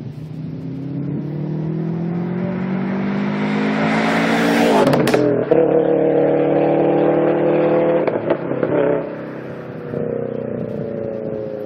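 2011 Subaru Impreza WRX STi with a custom CBE exhaust accelerating hard past, its turbocharged 2.5-litre flat-four rising in pitch through a gear. The pitch drops at an upshift about five seconds in, as it goes by, and climbs again through the next gear. After another drop about nine seconds in, the sound fades with a slowly falling pitch as the car pulls away.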